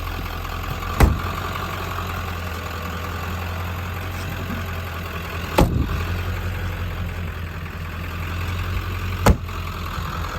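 Ford F350's 7.3-litre turbo diesel V8 idling steadily, with three sharp knocks about four seconds apart standing out above it.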